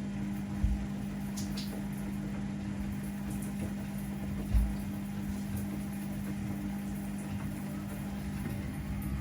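Laundry machines (washing machines and condenser tumble dryers) running with a steady low hum, and two dull thumps, about 0.7 and 4.6 seconds in.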